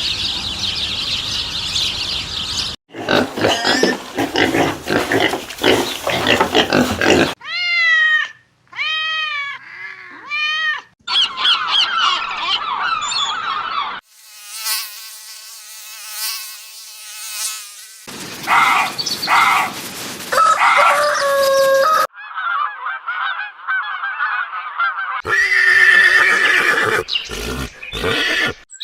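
A string of different animal calls, cut one after another every few seconds: a high chattering, a run of short arching calls repeated about once a second, a held call with a rich steady pitch, and other brief calls.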